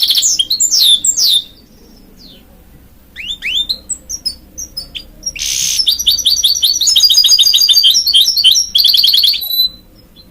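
Goldfinch × canary hybrid (mule) singing: fast trills and rapid repeated notes, a pause of about two seconds, then a longer run of song with a short harsh, buzzy note in it, stopping shortly before the end.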